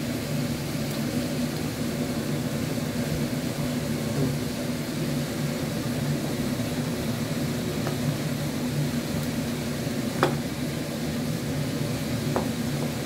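Chicken and masala sizzling in a pot while being stirred with a slotted spoon, over a steady low hum. A few light clicks of the spoon against the pot, the sharpest about ten seconds in.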